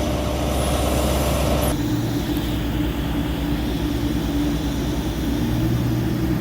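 A vehicle engine running with a steady low hum. The sound changes abruptly about two seconds in, after which a steady drone continues.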